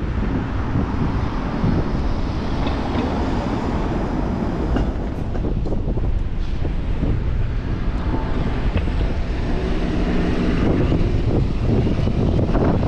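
Steady rumble of downtown street traffic with wind buffeting the microphone, and a pitched motor hum from about eight to eleven seconds in.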